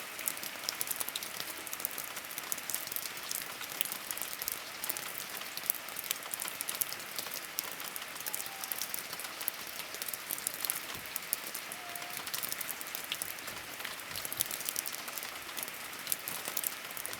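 Steady rain, a dense continuous patter of individual raindrops striking a surface.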